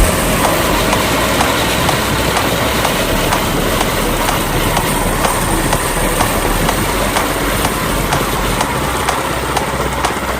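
A 200cc 6.5 HP single-cylinder four-stroke go-kart engine running steadily as the kart drives, with a regular clicking clatter through the noise.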